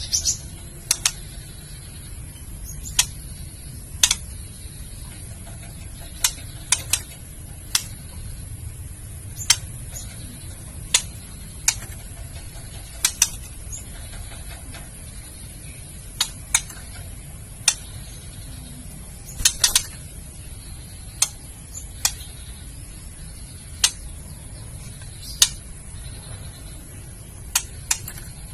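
Female white-rumped shama giving its kretekan call: sharp dry clicks, single or in quick pairs and clusters, every second or two, over a low steady hum. It is the female's call that stirs male shamas to sing and display.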